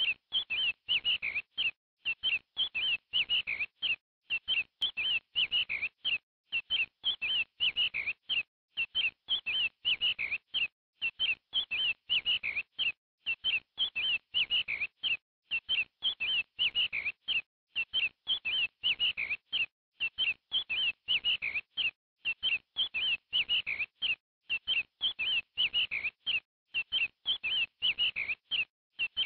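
Bird chirping: quick, high chirps in short clusters that repeat at a very even pace, with dead silence between the clusters, like a looped chirping sound track.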